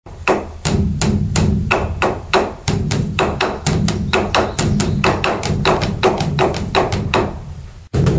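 A bell struck over and over in quick succession, about three or four strikes a second, each with a short ring, over a steady low hum. The sound cuts out for a moment near the end.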